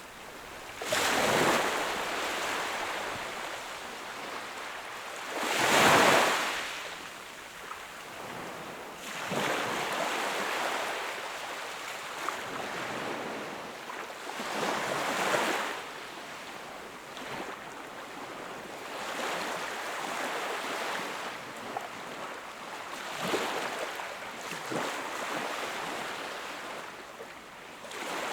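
Sea waves breaking and washing onto the shore, coming in slow surges every few seconds, the loudest about six seconds in.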